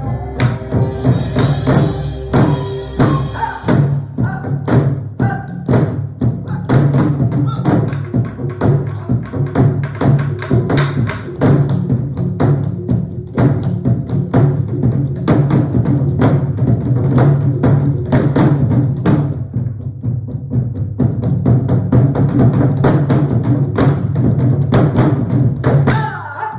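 Korean traditional ensemble music led by sori-buk barrel drums and other percussion playing dense, rapid strokes, with sharp wooden knocks among the drum hits, over a steady low held note.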